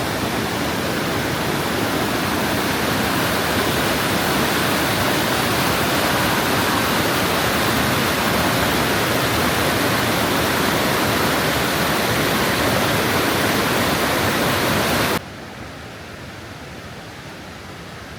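Steady rush of falling water from a waterfall. About 15 seconds in it drops suddenly to a much quieter rush.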